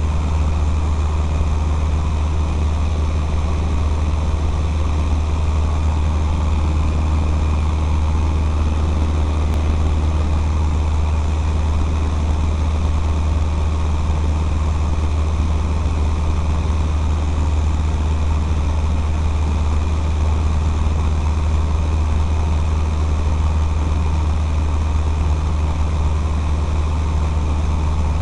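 Cessna 152's Lycoming O-235 four-cylinder engine and propeller droning steadily in flight, a strong low hum under an even rush of air.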